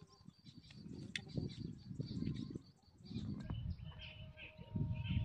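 Small birds chirping and calling in short high notes throughout, over a low rustling noise that swells and fades every second or so.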